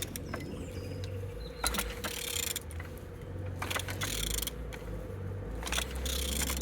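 Vauxhall/Opel A20DTH 2.0 CDTI four-cylinder diesel engine being turned over by hand, with irregular clicks and light mechanical clunks as it rotates freely. A steady low hum runs underneath.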